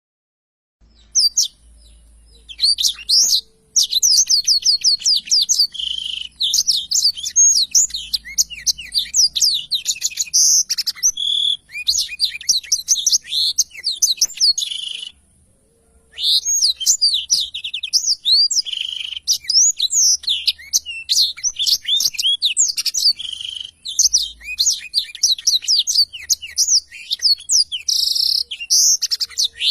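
Black-throated canary (blackthroat) singing vigorously in long, fast twittering phrases of high chirps and trills. It starts about a second in and pauses briefly once about halfway.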